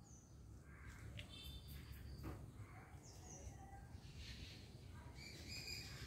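Faint, scattered bird calls: a few short high chirps and whistles, busier near the end. They come from a bird in the tree canopy that is taken for a mimic imitating a parrot's calls.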